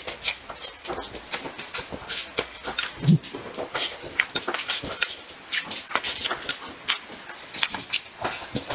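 Close-miked chewing: a rapid stream of wet lip smacks and mouth clicks from a person eating a mouthful of fish, with one short low hum about three seconds in.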